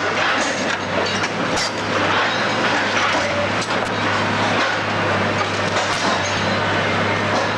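Building demolition machinery at work: a heavy diesel engine runs steadily under continuous crunching and clattering of breaking rubble, with a few sharp cracks along the way.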